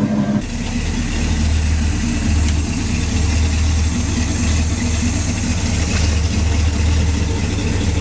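Chevrolet pickup's V8 engine idling, a low note with an uneven pulse in its beat.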